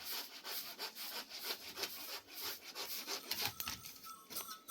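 Rhythmic rasping strokes of a hand tool working wood, about four a second, easing off near the end.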